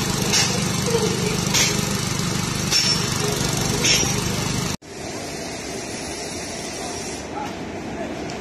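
Small petrol engine running steadily, with a short hiss about once a second. About five seconds in it cuts off abruptly and is replaced by quieter, steady background noise.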